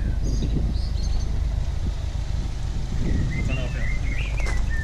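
Small birds chirping in short twittering phrases near the start and again in the second half, over a steady low rumble.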